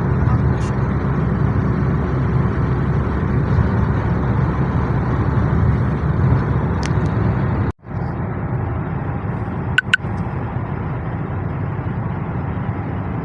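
Steady road and engine noise of a moving car, heard from inside the cabin. It cuts out abruptly about eight seconds in and comes back slightly quieter, with two sharp clicks about two seconds later.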